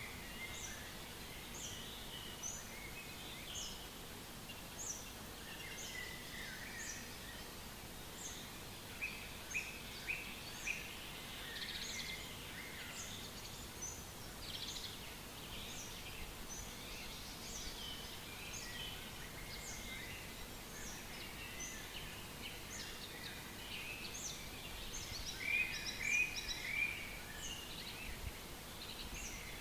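Several forest songbirds singing at once, a busy chorus of short overlapping notes and phrases. One bird repeats a high, thin note about once a second over a faint steady hiss of background noise, and some calls grow louder near the end.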